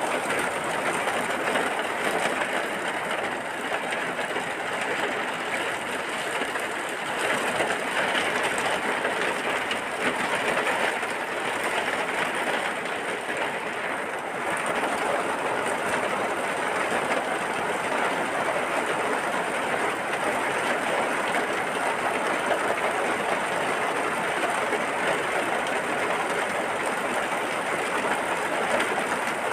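Steady, dense rainfall, a continuous even hiss of many drops with no breaks.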